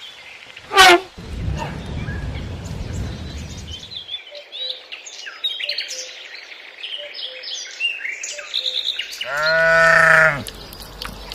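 A goat bleats once, a strong call about a second long, near the end. Small birds chirp before it, and a short, sharp, falling call is heard about a second in.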